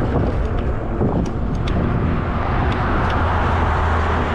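Steady road noise while riding a fat-tire e-bike on a street: a low rumble with a few light clicks, swelling about three seconds in.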